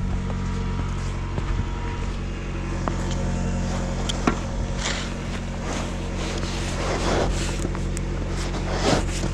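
A car engine idling steadily while it warms up, with a few short scrapes of a snow shovel in snow, the loudest about 9 seconds in.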